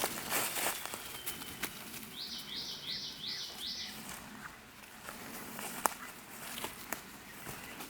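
A songbird sings a quick run of five identical rising notes, high-pitched, about two seconds in. Footsteps and rustling on the trail sound around it.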